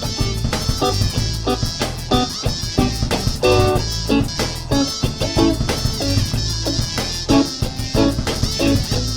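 Instrumental band jam with short plucked notes over a low bass line and a steady drum beat.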